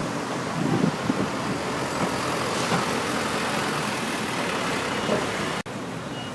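Steady road traffic noise with a few low thumps. It cuts off suddenly about five and a half seconds in, giving way to a quieter hum.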